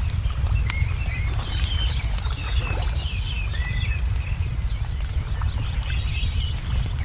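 Layered nature ambience: a wood fire crackling with sharp scattered pops, and small birds chirping and twittering, over a steady low rumble.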